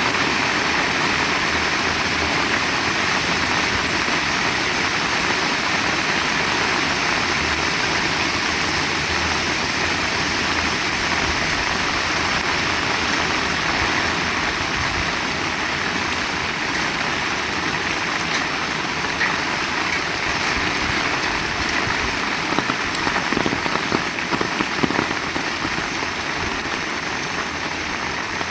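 Heavy rain falling in a steady, dense hiss, with a few louder drop impacts about three-quarters of the way through.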